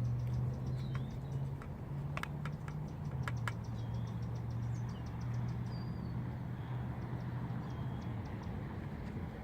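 Outdoor ambience: a steady low hum, with a fast, even, high ticking and a few short high chirps over it. A handful of sharp clicks sound about two to three and a half seconds in.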